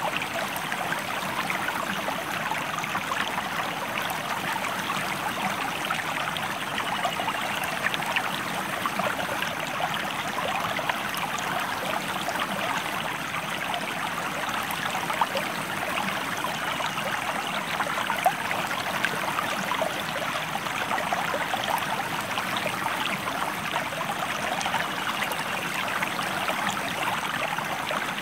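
A stream flowing over rocks: a steady rush of running water full of small splashes and trickles.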